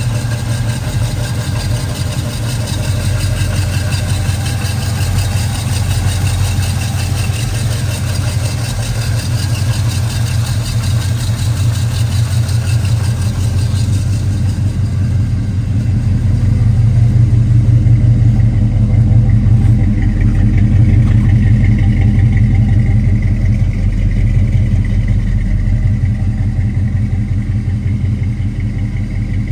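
1964 Chevrolet C10 pickup's engine running steadily, getting louder from about sixteen seconds in and easing back a little near the end.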